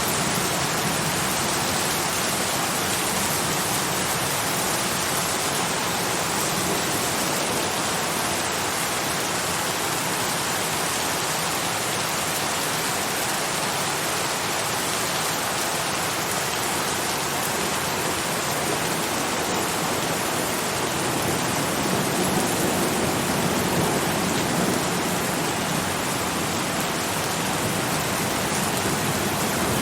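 Steady rain falling, a dense even hiss with no single drops standing out, swelling a little for a few seconds about two-thirds of the way through.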